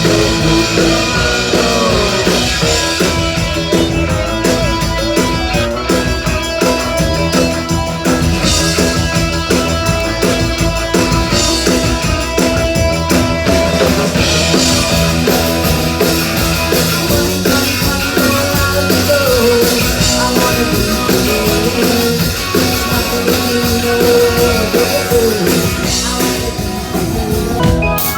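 Live band playing dance music with a steady beat, loud and unbroken throughout.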